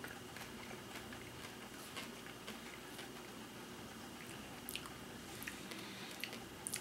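Faint chewing of a candy-shelled White Candy Corn M&M, with a few soft clicks now and then.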